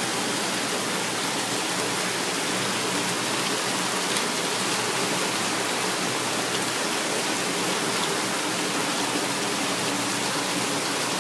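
Steady night rain pouring down, an even unbroken hiss with a few faint drops and ticks on surfaces.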